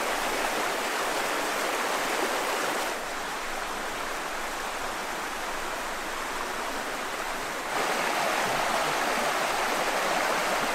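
Rushing water of the Hoh River, a steady, even rush that drops a little in level about three seconds in and comes back up near eight seconds.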